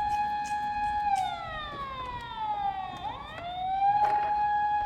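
Toy vehicle's electronic wail siren: a held high tone slides down over about two seconds, then sweeps back up about three seconds in and holds.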